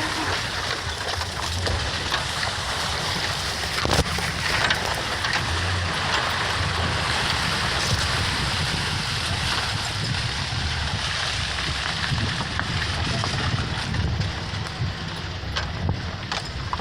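A truck's engine running low and steady under a constant rushing noise, with a sharp knock about four seconds in.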